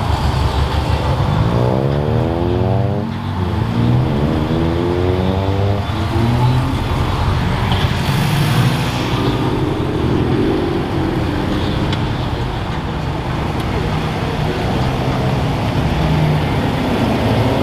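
Car engines running, with an engine accelerating: its pitch rises steeply twice in the first few seconds over a steady low engine rumble, followed by a brief hiss of a car passing.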